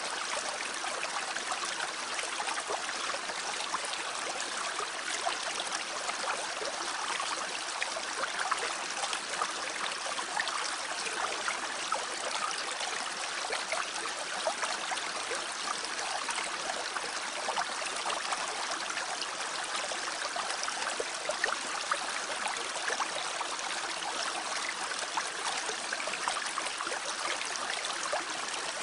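Mountain stream running over rocks: a steady rushing and babbling of water, with small splashes flickering through it.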